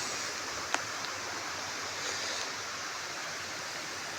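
Steady hiss of heavy rain with rainwater running in a flooded ditch, with one sharp tick about a second in.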